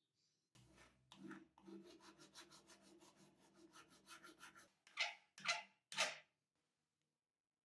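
Quick rubbing or filing strokes, about five a second, over a low steady hum, then three slower, louder strokes near the end.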